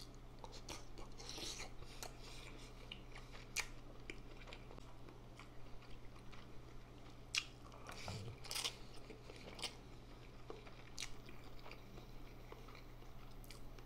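Close-miked chewing and biting of sausage and instant noodles, with scattered wet mouth smacks and clicks. A steady faint low hum lies underneath.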